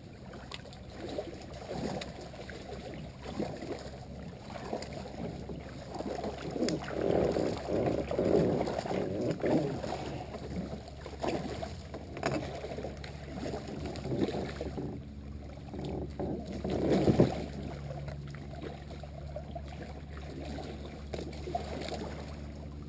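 Kayak paddling: paddle strokes in the water with irregular knocks and bumps, loudest in a spell about seven to ten seconds in and in a sharp peak around seventeen seconds in.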